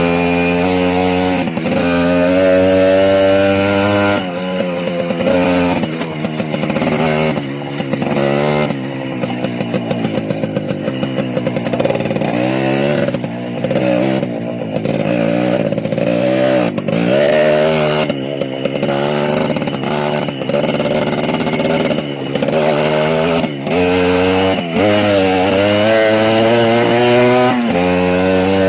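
Small motorbike engine running under riding, its pitch climbing and falling again and again as the throttle is opened and closed, with a sudden drop about four seconds in and a choppy, uneven stretch in the middle.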